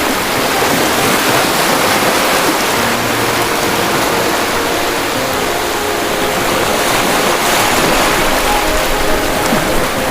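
Ocean waves breaking and washing in as a steady, loud rush of surf.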